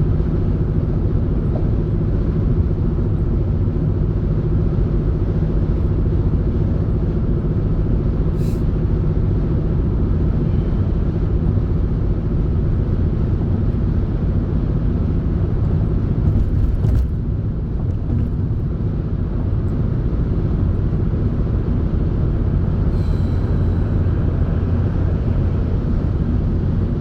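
Steady road and engine rumble inside a moving car's cabin, a low drone that eases slightly for a moment about two-thirds of the way through.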